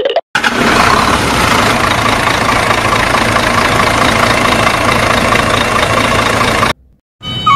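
Engine running steadily, cutting in suddenly just after the start and stopping suddenly near the end.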